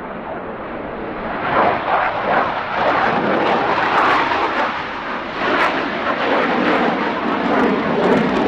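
Jet aircraft engine noise, a loud rumble with sharp crackling through it, swelling about a second and a half in and staying loud.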